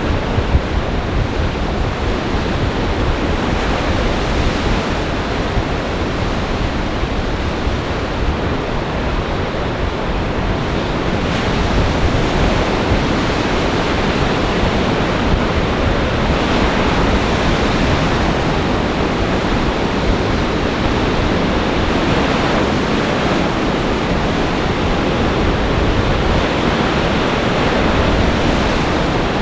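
Storm waves breaking on a lakeshore in a continuous wash of surf, with gale-force wind buffeting the microphone.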